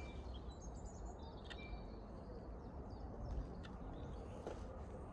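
Small birds chirping faintly, with brief high chirps scattered through, over a steady low background rumble.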